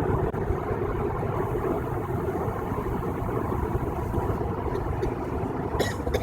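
Steady road noise inside a car cabin at highway speed: tyres and engine running evenly, with a couple of short clicks near the end.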